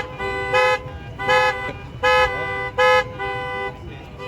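Vehicle horn sounding in a repeating two-tone pattern: short loud blasts roughly every three-quarters of a second, with a lower, quieter tone held between them.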